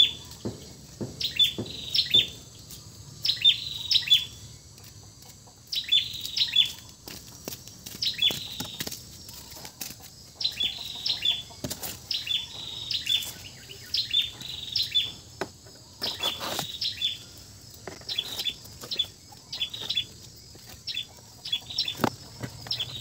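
A small songbird calling over and over in short, high chirps, in quick groups of two to four. Scattered soft snaps and scrapes from a knife trimming galangal rhizomes sound underneath.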